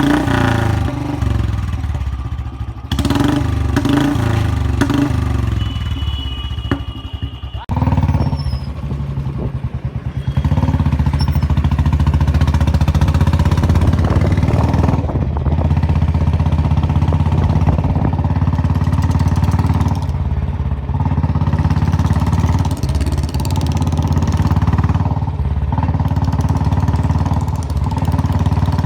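Royal Enfield single-cylinder motorcycle engine running through a long-bottle Punjab silencer, revved and let off several times with sharp exhaust pops (pataka) on the overrun.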